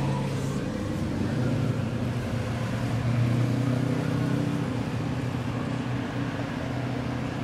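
Car engines and exhausts running as cars drive by on the street, with the engine note stepping in pitch. It is loudest about three seconds in.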